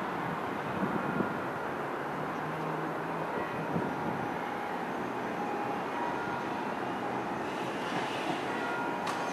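NJ Transit Arrow III electric multiple-unit train approaching along the line: a steady rumble with a faint whine, taking on more high hiss near the end as it draws closer.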